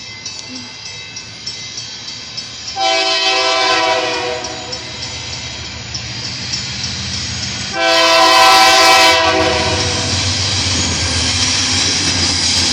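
Freight train of AC44i diesel-electric locomotives approaching, its air horn sounding two chord blasts a few seconds apart, each under two seconds long, the second louder. Between and after the blasts the locomotives' engine rumble grows steadily as they draw near.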